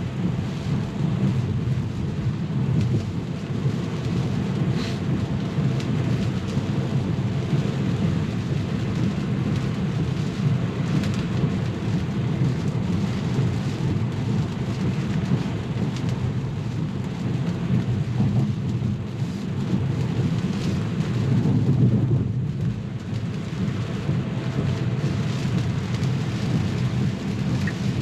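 Steady low rumble of tyres on a wet road and rain on the car, heard inside the cabin of a Tesla electric car driving at speed, with no engine note. It swells a little and then dips about three-quarters of the way through.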